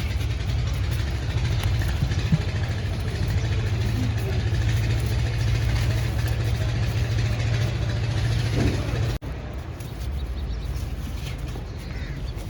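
An engine running steadily with a low hum, cut off sharply about nine seconds in, followed by quieter running.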